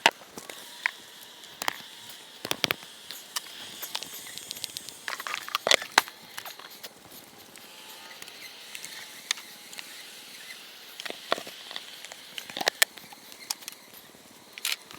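Scattered sharp clicks and light knocks at irregular moments, typical of hive boxes and frames being handled, over a faint steady high-pitched whine.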